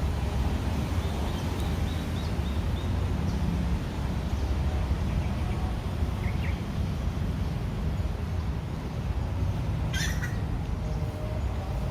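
Steady low background rumble with a few short, faint bird chirps, and one short sharp call about ten seconds in.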